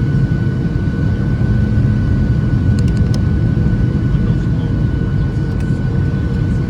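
Steady roar of a Boeing 737-700 on approach, its CFM56-7B jet engines and airflow heard inside the cabin, with a steady high engine whine over the low rumble. A few faint clicks come about three seconds in.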